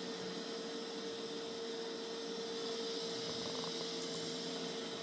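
Mova Z60 robot vacuum running steadily, a constant suction-fan hiss with a steady whining hum, likely on high (turbo or max) suction.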